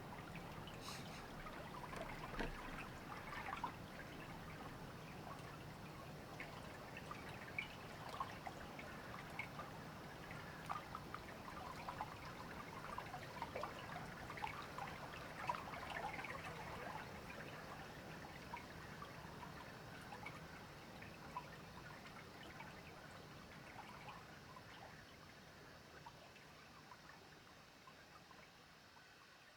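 River water trickling and babbling, with many small irregular splashes. It fades out gradually toward the end.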